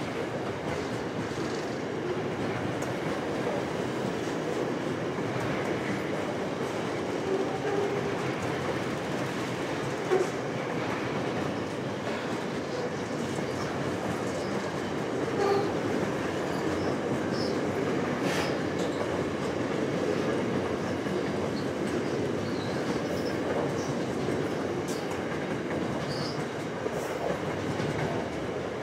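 Double-stacked container wagons of a Pacific National intermodal freight train rolling past: a steady rumble of wheels on rail, with occasional clicks and clacks from the wheels.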